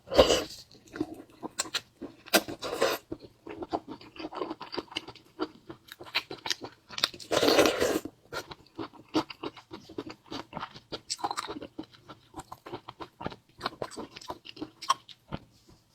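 Close-up eating sounds from a mukbang: a person chewing with wet, crunching mouth noises and many small irregular clicks, with a few louder, longer bursts, the longest about seven to eight seconds in.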